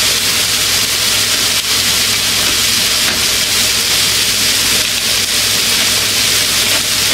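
Food frying in a hot pan: a steady, loud sizzling hiss, with a steady low hum underneath.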